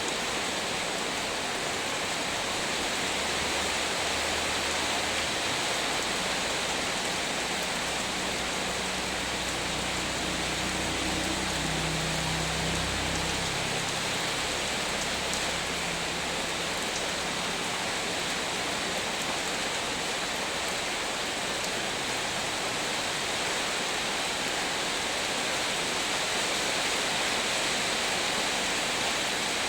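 Heavy rain pouring down in a steady, even hiss. A low hum runs underneath for a stretch in the first half.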